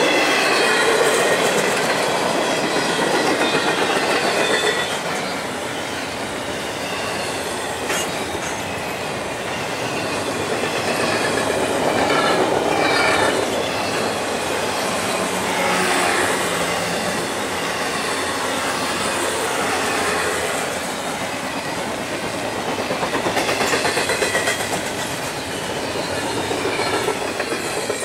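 Double-stack intermodal container cars rolling past at speed: steel wheels clattering over the rails, with a high wheel squeal rising and fading at times.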